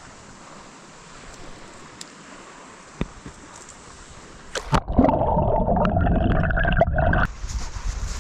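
Faint water ambience, then about five seconds in a loud, muffled gurgling of water lasting a couple of seconds, which cuts off suddenly.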